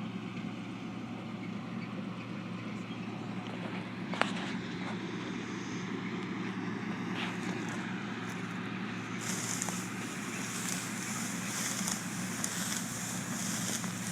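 Farm harvest machinery running steadily with a constant engine hum. A single click sounds about four seconds in, and about nine seconds in a high hissing rush joins the hum.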